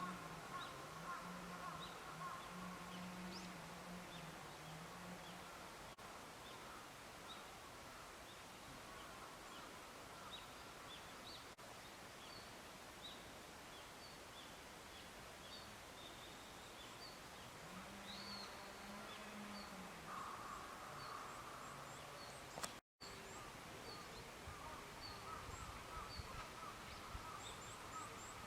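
Faint wild bird calls: many short, high chirps repeating throughout over a quiet outdoor background.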